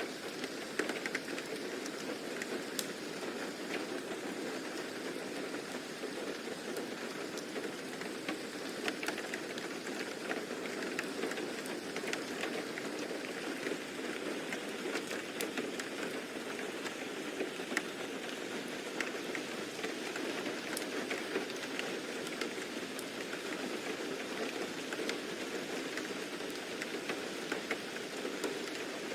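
Steady rain falling on a surface, a continuous even hiss with scattered sharp drop ticks.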